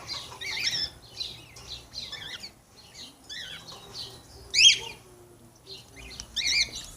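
Small birds chirping: repeated short, high calls that sweep down in pitch, with the loudest calls about halfway through and again near the end.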